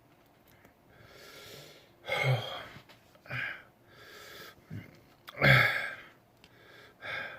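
A man breathing hard through his mouth against the burn of a superhot chili pepper: a string of hissing breaths, the louder ones voiced like a gasp or groan, about one every second or so.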